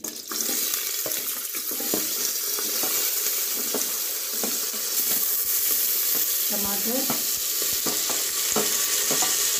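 Diced potatoes dropped into hot oil in a pressure cooker and sizzling steadily, the hot-oil tempering of mustard seeds, cumin and curry leaves frying around them. A steel ladle clinks lightly against the steel dishes now and then.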